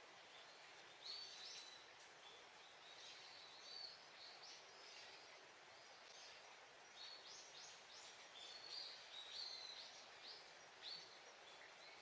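Faint chirps and short calls of small birds, scattered through the whole stretch, some as quick slurred notes, over a steady low hiss of outdoor ambience.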